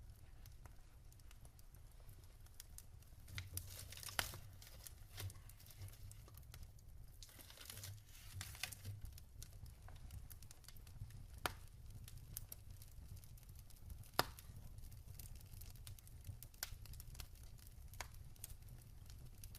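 Wood fire crackling softly, with scattered sharp pops, the loudest about 4, 11 and 14 seconds in, over a low steady rumble of flames.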